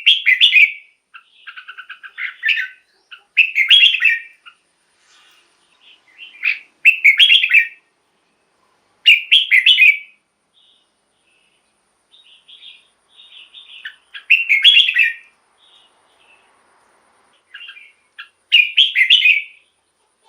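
Red-whiskered bulbul singing: short, bright whistled phrases every couple of seconds with pauses between, one of them a fast trill.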